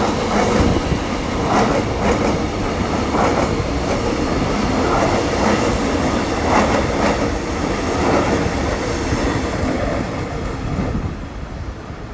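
Metro X'Trapolis electric suburban train pulling out and rolling past: a steady rumble with repeated clacks of its wheels over rail joints. It fades near the end as it leaves.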